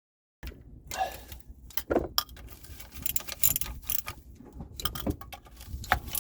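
Small metal objects clinking and rattling as they are handled: a string of sharp, irregular clicks over a low rumble, starting after a moment of silence.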